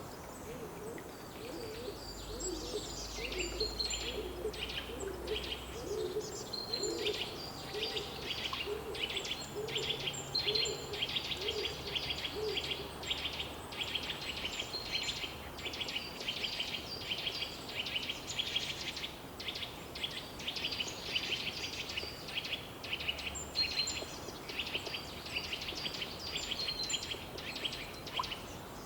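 Outdoor bird chorus: many birds chirping and singing in quick high notes throughout. For roughly the first half, a low call repeats about twice a second under them.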